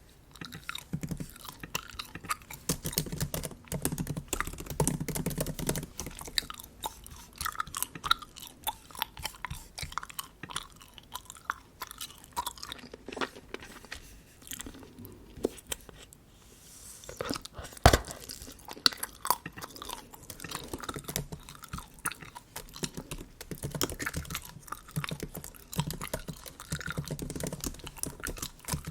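Bubble gum being chewed in irregular bursts of chews, with one sharp snap a little past halfway through.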